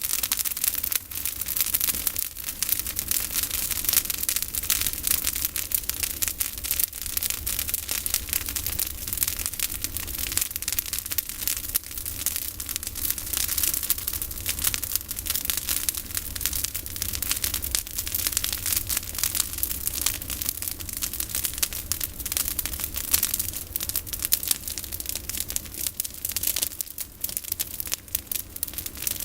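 Campfire of pruned olive branches crackling steadily, a dense run of small snaps and ticks.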